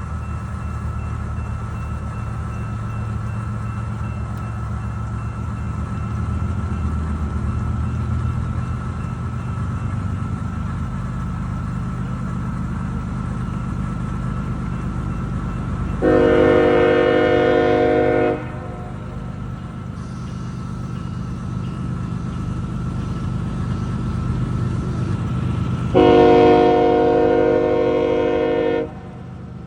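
Slow-moving CSX freight train with a steady low diesel locomotive rumble. Its air horn sounds two long blasts, one a little past halfway and one near the end, each about two and a half to three seconds long.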